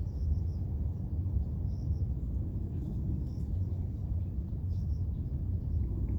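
Outdoor nature ambience: a steady low rumble with faint short high chirps from small birds or insects every second or so.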